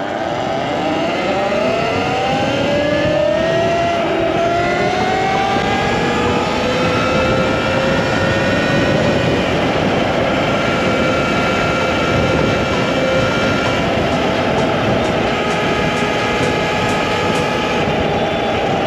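Talaria MX5 electric dirt bike's motor whining, rising in pitch as it accelerates over the first several seconds, then holding a steady pitch at speed, over a steady rush of wind noise.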